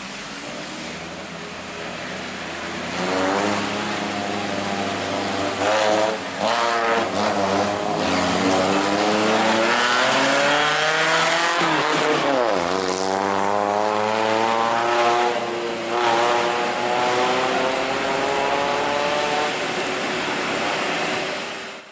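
Large truck engine running hard and revving, its pitch climbing and falling slowly, with one sharp drop and recovery about halfway through.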